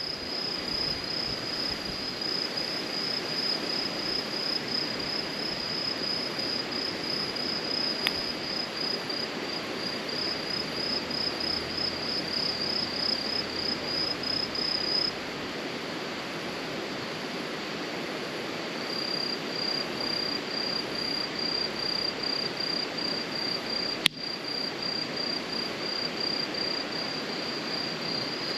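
Insects chirping in a fast, even pulse of high notes, pausing for a few seconds midway, over a steady low hiss. Two sharp pops stand out, about eight seconds in and near the end.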